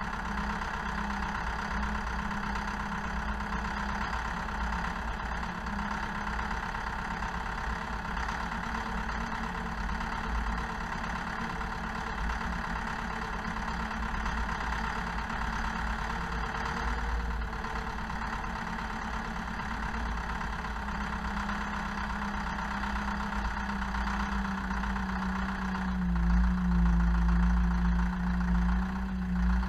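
Zetor Proxima 80 tractor's four-cylinder diesel engine running steadily. About 26 s in it gets louder and its pitch drops slightly for a few seconds as the engine comes under heavier load.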